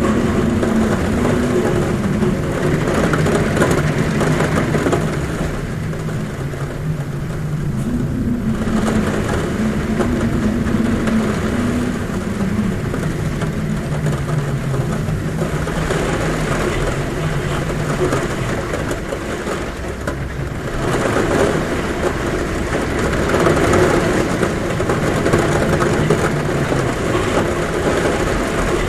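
Heavy rain falling on a roof, a steady loud hiss, with wind humming at a window in low tones that drift up and down in pitch. The whole sound swells and eases in waves.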